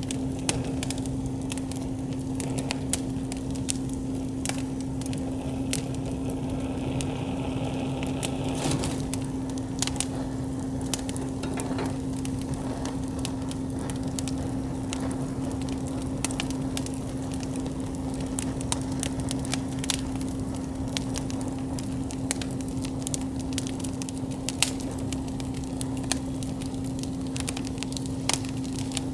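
Wood campfire burning with frequent, irregular crackles and sharp pops over a steady low rumble, with a brief hiss about seven seconds in. A steady low hum runs underneath.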